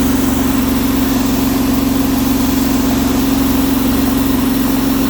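Hydramaster Boxxer 423 truckmount carpet-cleaning machine running steadily, its new 23 hp Vanguard engine driving the blower, with a strong constant hum.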